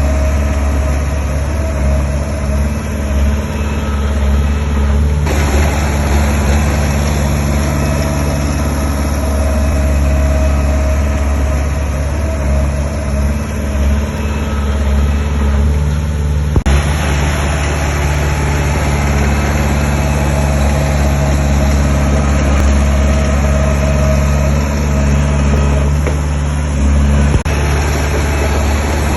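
Diesel engine of heavy earthmoving machinery running steadily, with a strong low hum. The higher machine noise changes abruptly about five and about seventeen seconds in.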